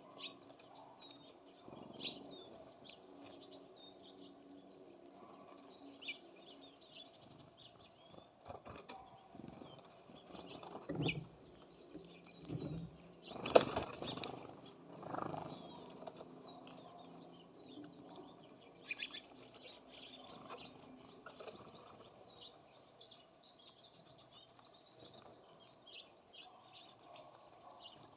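Small songbirds at a feeder: scattered short high chirps and calls, with wings flapping in several flurries as birds come and go, the loudest flutter about halfway through.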